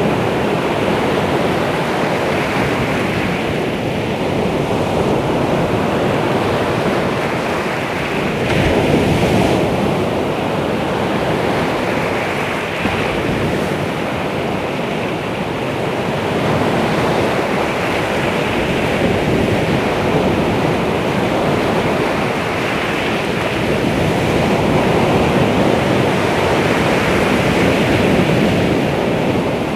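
Baltic Sea surf washing on the shore, a continuous rush of waves that swells and eases every few seconds, with one stronger surge about nine seconds in.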